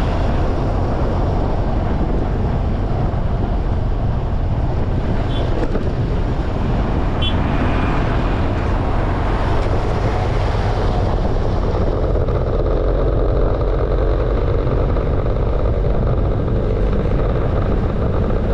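Steady road noise from riding through traffic, mostly a low rumble of wind on the microphone mixed with vehicle noise. Two brief faint high chirps come about five and seven seconds in.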